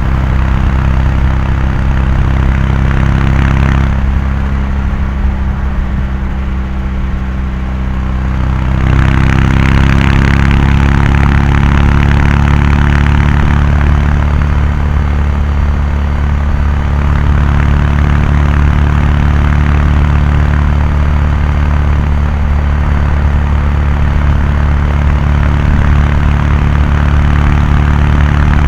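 Kawasaki Meguro K3's air-cooled 773 cc parallel-twin exhaust at steady highway cruise. It eases off about four seconds in, then picks up again about nine seconds in and holds a steady drone.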